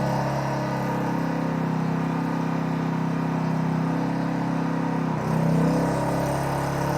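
A-iPower GXS1500i inverter generator's engine running steadily at low idle (eco mode). About five seconds in, the engine note dips and then picks up slightly, a change in engine speed.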